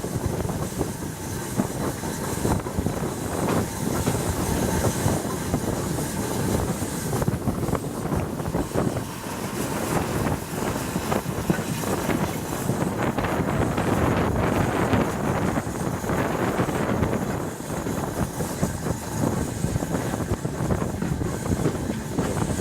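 Train running along the track: a steady rumble packed with rattling and clatter from the wheels and carriages.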